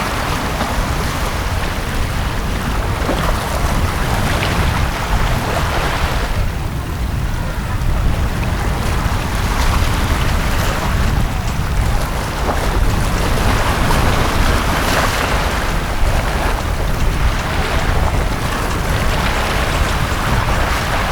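Sea waves washing onto a beach, the surf swelling and easing every few seconds over a steady low rumble.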